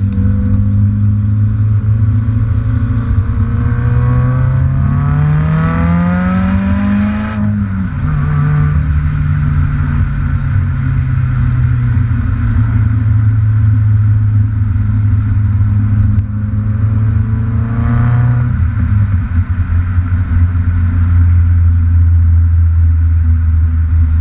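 2016 Subaru WRX turbocharged 2.0-litre flat-four heard through a GReddy SP cat-back exhaust. The revs climb for about three seconds, drop suddenly, then the engine runs steadily with its pitch slowly falling, rising briefly again about three-quarters of the way through.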